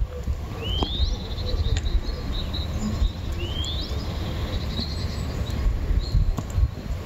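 A small songbird calls twice, each a short whistle rising sharply in pitch, with a few brief chirps between, over a steady low outdoor rumble.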